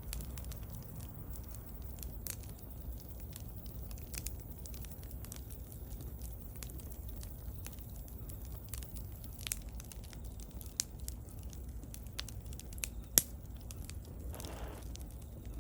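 Wood bonfire crackling over a low steady rumble, with scattered sharp pops; the loudest pop comes about 13 seconds in, followed shortly by a brief hiss.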